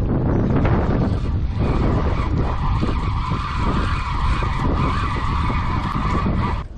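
Fishing reel whirring steadily with a high whine while a hooked fish is fought from a kayak. The whine stops abruptly near the end. Wind buffets the microphone underneath.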